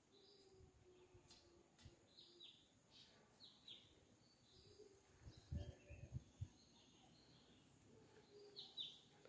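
Near silence with faint birds chirping, short falling chirps every second or so. A few low thumps come a little past halfway.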